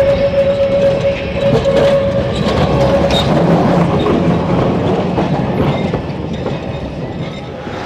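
An electric tram running on street track, rumbling and clattering over the rails. A steady high tone dies away about three seconds in.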